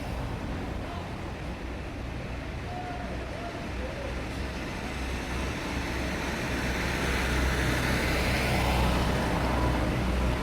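Road traffic: a steady low engine drone, with a passing vehicle swelling louder in the second half and easing off near the end.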